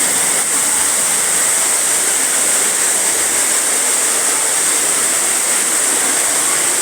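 Steady rushing of falling water from an indoor waterfall, an even hiss with no breaks.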